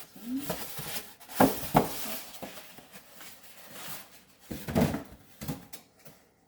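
Cardboard box and styrofoam packing being handled: a few sharp knocks and rustles, with the louder bumps a little over a second in and again near the end.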